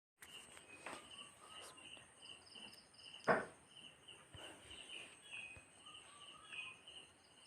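Faint background of insects chirping in short, evenly repeated pulses, over a steady high whine. A single sharp knock sounds a little over three seconds in.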